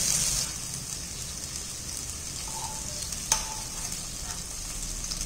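Okra sizzling in hot mustard oil in a kadhai while a metal ladle lifts the pieces out, the sizzle strongest in the first half-second. A single sharp clink of the ladle on the pan a little past three seconds in.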